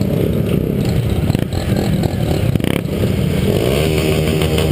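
Several motorcycle engines running together, with revs rising and falling.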